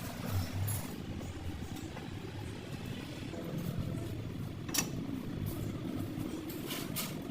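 A steady low mechanical hum, with a sharp click about five seconds in and two more near the end.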